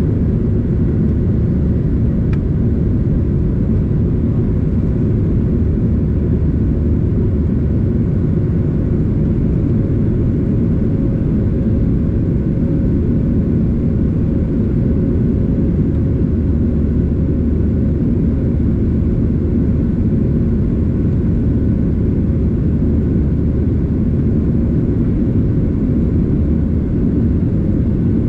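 Steady rumble of a Boeing 737-800's CFM56 jet engines, a low drone with a faint steady hum over it, holding level without rising or falling.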